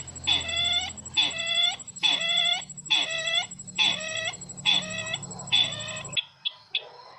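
Recorded call of the sisintar ladang, a bird-lure call: about one short ringing call a second, each with overtones, repeated steadily with a faint high whine above, then cut off abruptly about six seconds in, leaving faint chirping.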